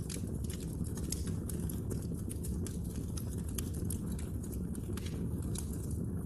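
Wood fire crackling: frequent, irregular sharp snaps and pops from the burning wood over a steady low rumble of the flames.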